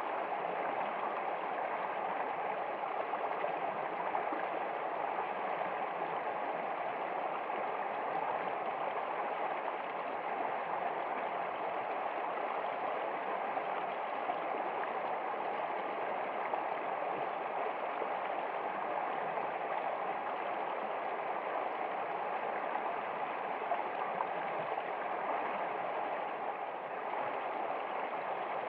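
Running water, a stream flowing with a steady, even rush and no pauses or single splashes.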